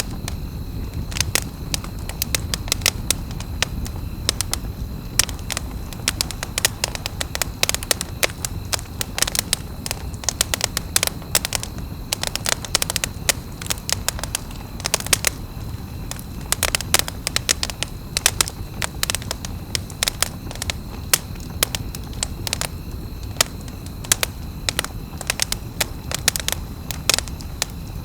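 Campfire crackling, with many irregular sharp snaps and pops over a steady low rumble of the burning wood.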